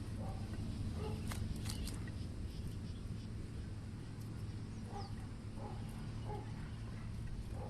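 Steady low hum with a few short animal calls in the second half and some sharp clicks near the start.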